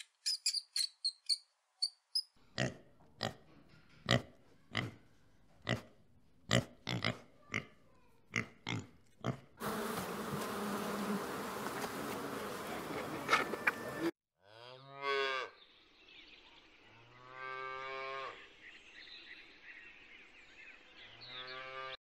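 Cattle mooing: three low, drawn-out moos in the last eight seconds, the first falling in pitch. Before them come high squeaks at the start, a run of sharp clicks, and a few seconds of steady noise.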